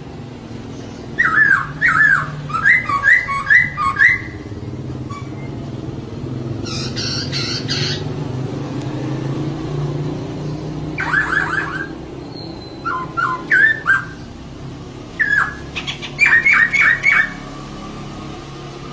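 Female laughingthrush (poksay) calling in bursts of quick repeated notes, with a short harsh burst about seven seconds in. A low steady hum runs underneath.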